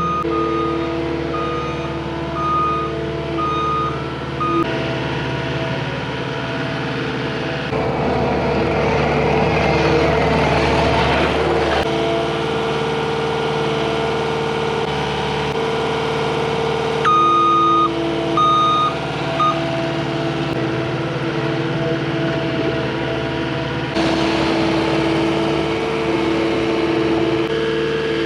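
Cat 259D compact track loader's diesel engine running under work, pulling harder for a few seconds in the middle. Its backup alarm beeps as it reverses, about four beeps near the start and three more about two thirds of the way through.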